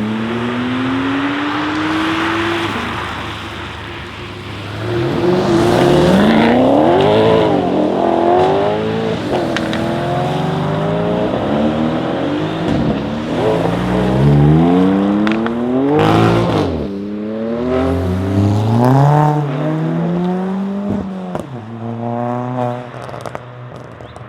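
Audi RS6 C8's twin-turbo V8, breathing through a Capristo exhaust, revving hard many times over, its pitch climbing and dropping back again and again, with a few sharp cracks about two-thirds of the way in.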